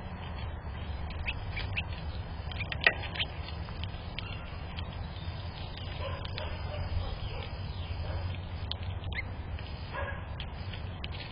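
Outdoor ambience at a bird feeding spot: a steady low rumble under many short, high bird chirps, with a sharp click about three seconds in. A few short, lower-pitched calls come around the middle and again near the end.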